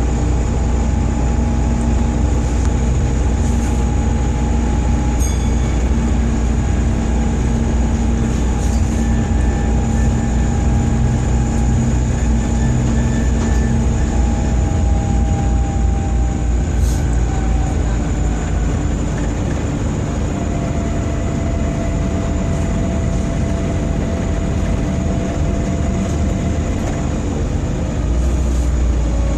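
Volvo B7TL double-decker bus running under way: its diesel engine and driveline give a steady heavy rumble with whining tones that slide slowly in pitch. The rumble eases about two-thirds of the way through and comes back strongly near the end. It is the sound of a bus with bad engine vibrations.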